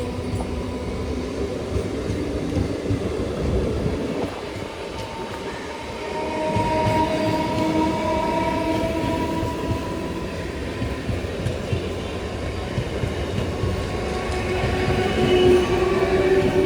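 Electric multiple-unit (EMU) suburban local train running on the track: a continuous low rumble of wheels on rail with several drawn-out tones that shift slowly in pitch, growing louder toward the end.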